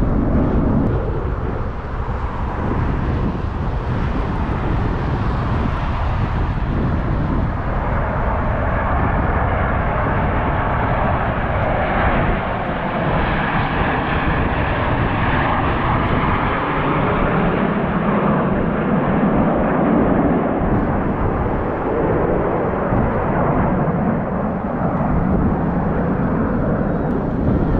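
Snowbirds' CT-114 Tutor jets flying over in formation: steady jet engine noise that swells a little around the middle of the pass.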